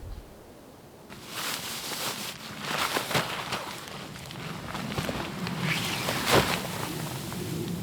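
Footsteps crunching through snow, starting about a second in, with irregular crackles and one louder crunch a little past six seconds.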